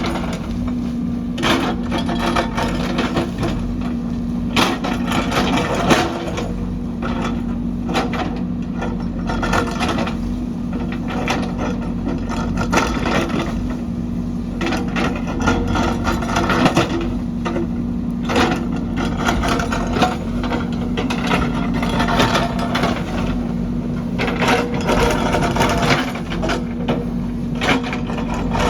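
JCB backhoe's diesel engine running steadily, with frequent irregular knocks and clatters from the machine at work.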